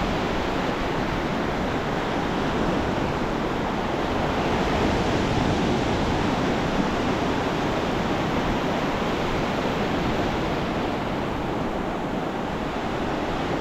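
Ocean surf washing and rumbling steadily, a dense roar of breaking waves that swells a little midway and eases near the end, with some wind on the microphone.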